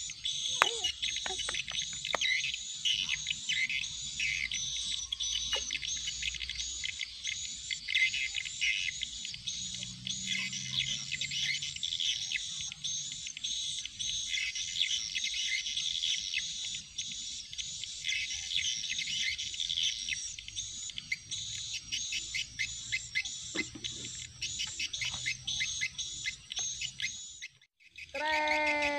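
Birds chirping continuously, a dense chorus of high calls repeated evenly about twice a second, that cuts off suddenly near the end.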